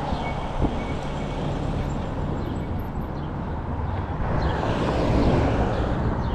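Steady road and traffic noise heard from a moving e-bike, with a passing vehicle swelling up about five seconds in.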